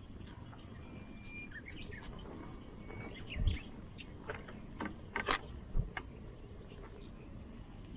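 A few short bird chirps over outdoor background noise, with scattered sharp clicks and two dull low thumps, one about three and a half seconds in and one about six seconds in.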